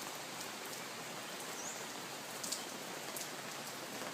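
Steady rain falling: an even hiss with a few sharp drip ticks, the clearest about two and a half seconds in.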